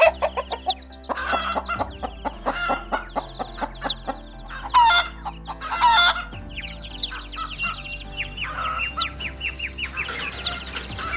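Chickens clucking in a run of short calls, with two louder calls about five and six seconds in, over steady background music.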